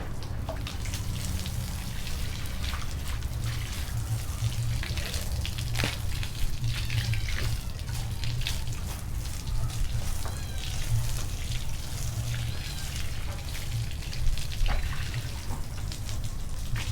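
Water splashing and trickling with scattered small knocks while a cat cage is washed down, over a steady low hum.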